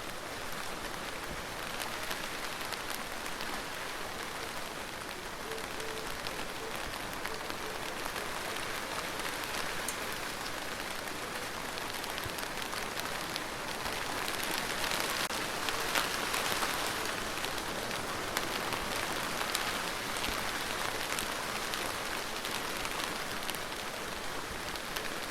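Rain falling steadily, with scattered drops ticking through the hiss. It swells a little heavier about fourteen seconds in, then eases back.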